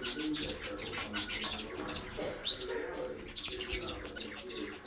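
A mixed flock of aviary parrots chirping and chattering over one another, many short, high calls packed closely together, with lower calls running underneath.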